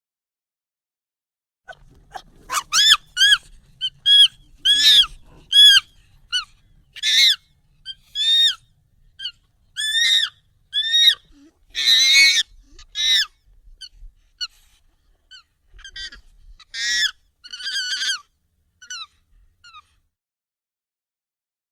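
Monkey calls, sped up and raised in pitch: a rapid series of short, high squeaky calls, about two a second, each falling or arching in pitch. They start about two seconds in and stop near the end.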